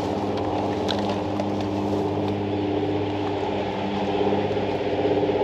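A motor or engine running steadily nearby, a low hum holding one pitch, with a few faint clicks.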